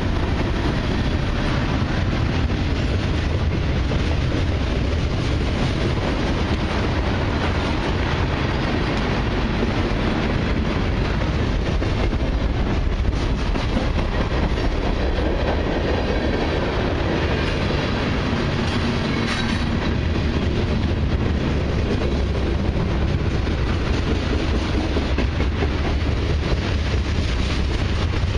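Freight cars of a long mixed train (tank cars, boxcars, covered hoppers) rolling past close by: a steady noise of steel wheels running on the rails.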